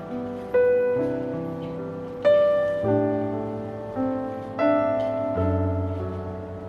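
Background music: slow, gentle piano, single notes and chords struck every second or two and left to fade.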